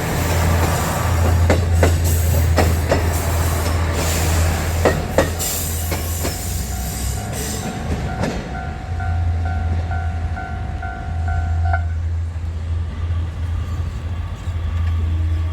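A train running past a level crossing, its wheels clacking over rail joints over a steady low hum. About eight seconds in the clatter fades and the crossing's warning alarm rings on in even pulses.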